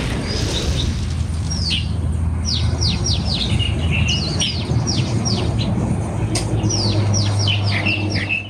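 Small birds chirping: runs of quick, high chirps that each sweep downward, over a steady low hum.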